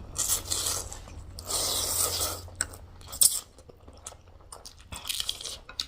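Close-miked eating sounds: chewing and biting, with two longer noisy bursts in the first couple of seconds followed by short, sharp clicks and smacks.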